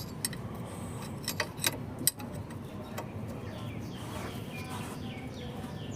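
A few sharp clicks and knocks of a hand tool on metal as a socket or Allen key is fitted to the compressor-belt adjuster nut, most of them in the first two seconds. From about halfway a bird chirps repeatedly in short falling calls.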